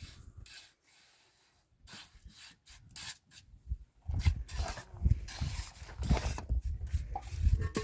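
Irregular rubbing and scraping strokes, faint at first, then louder and denser about four seconds in, with dull low thumps among them.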